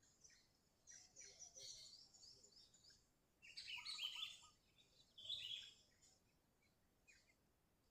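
Sooty-headed bulbul singing in three bursts of quick, high chirping notes, with a few faint chirps near the end.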